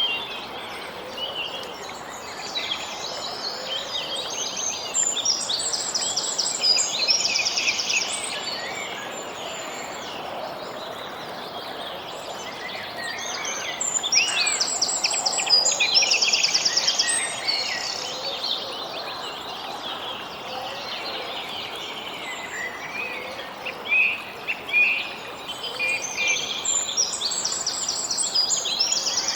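Songbirds singing over a steady background hiss of outdoor ambience. One song phrase ending in a fast, even trill comes back three times.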